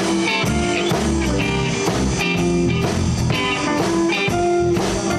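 Live blues band of two guitars, bass and drum kit playing a straight shuffle in G at a mid-to-high tempo, opening on the turnaround.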